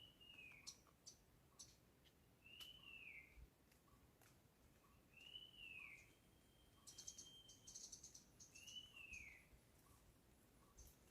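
Faint forest birdsong: one bird repeats a short arching whistle, rising then falling, about every three seconds, over scattered high chirps and clicks from other birds. About seven seconds in, a short buzzy high-pitched trill joins.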